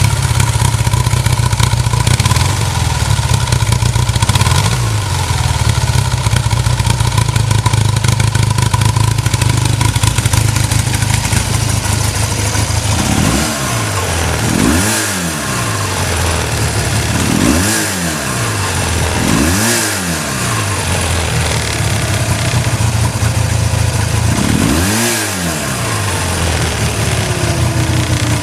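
BMW R100RS air-cooled flat-twin boxer engine running through its mufflers, idling steadily at first, then blipped five times from about halfway, each rev rising and falling back to idle.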